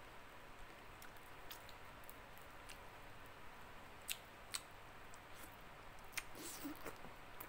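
Faint chewing of fried sweet-braised fish (ikan bacem) eaten by hand, with a few sharp clicks about four seconds in and again just after six, and a short cluster of wetter mouth sounds near the end.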